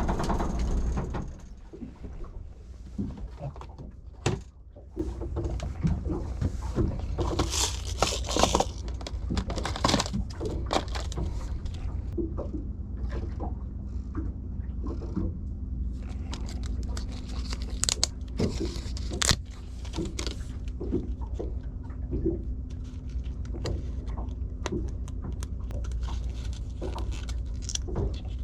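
A boat engine's running note drops away about a second and a half in and settles to a low steady hum. Scattered sharp clicks and knocks sound over it throughout.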